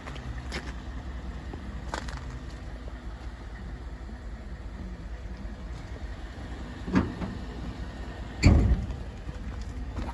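Pickup truck engine idling with a low, steady rumble, with a few light clicks and one loud thump about eight and a half seconds in.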